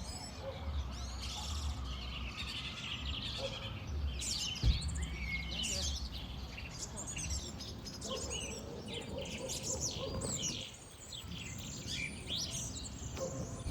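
Several birds singing and chirping at once, many short overlapping calls and trills, over a low rumble, with one dull thump about five seconds in.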